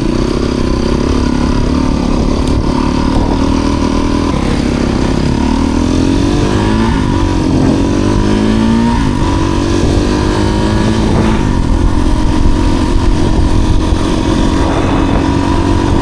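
Off-road motorcycle engine running as the bike is ridden, its pitch rising and falling with the throttle around the middle, then holding steady.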